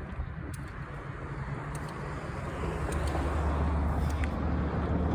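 A car approaching on the road, its engine hum and tyre noise growing steadily louder through the second half.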